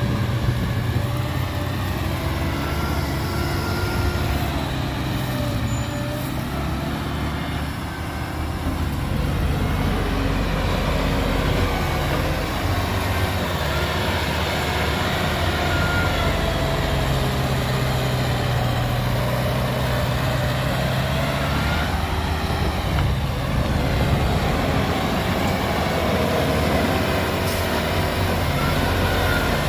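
Heavy diesel engine running steadily, its pitch rising and falling as the revs change. It gets a little louder about nine seconds in.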